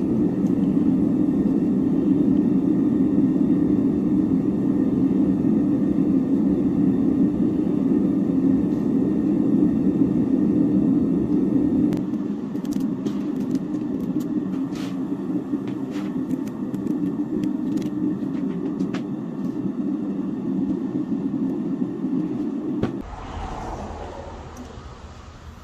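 Steady rushing rumble of a gas torch flame melting silver for a hand pour, with scattered light clicks in the second half; the flame cuts off suddenly near the end.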